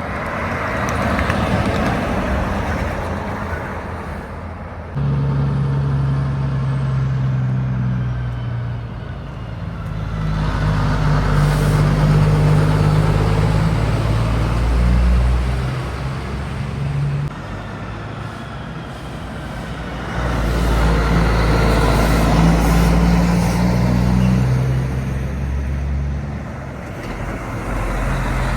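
Heavy trucks and other traffic passing one after another on a highway, with the low tone of big diesel engines swelling and fading in several waves.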